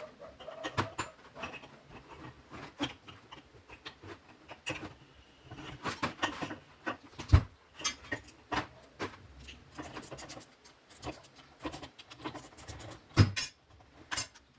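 Irregular small clicks, taps and scrapes of hand tools and metal parts being handled during work on an air-suspension compressor, with two louder knocks about seven and thirteen seconds in.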